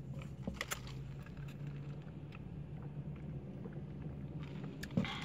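Steady low hum of a car idling, heard inside the cabin, with a few faint clicks. About five seconds in comes a short slurp through a drinking straw.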